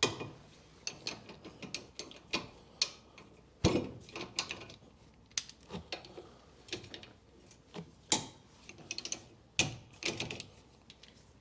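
Hand tools working on the brake caliper carrier bolts: irregular metal clicks in short ratchet-like runs, with a few sharper metallic knocks.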